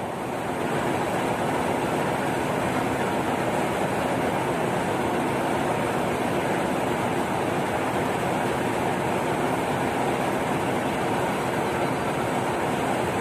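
Train headed by a CC206 diesel locomotive going past: a steady, even rushing rumble of wheels on rails.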